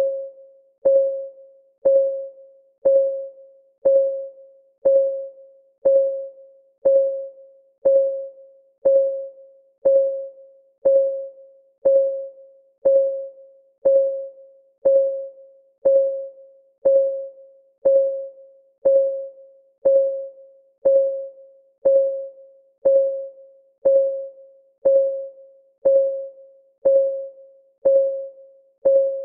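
Clock ticking sound of a countdown timer, one tick a second, steady and even; each tick is a short click with a pitched tone that quickly fades.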